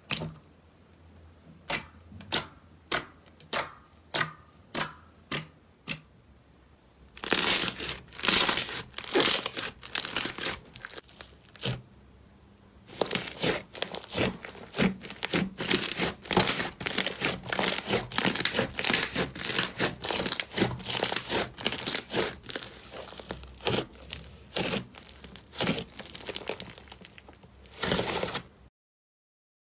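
Slime being handled up close: a run of about eight evenly spaced sharp pops, then long stretches of dense crackling and popping that cut off abruptly near the end.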